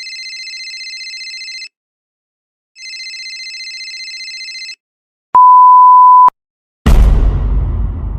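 Sound effects in a row: an electronic telephone ring sounding twice, then a loud steady censor bleep about a second long, then a sudden deep boom that dies away slowly.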